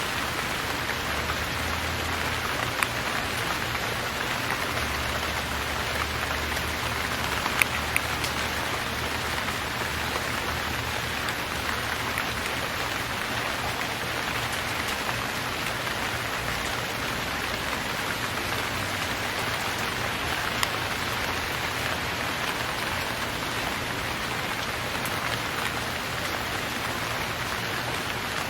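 Steady hiss of rain falling, with a few sharp ticks of single drops. There is a low rumble of wind on the microphone that comes and goes in the first part.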